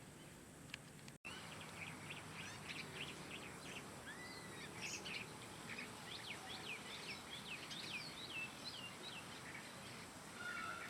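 Small birds chirping and twittering: a dense run of short high chirps and quick downward-sweeping notes over a faint outdoor background, after a momentary dropout about a second in.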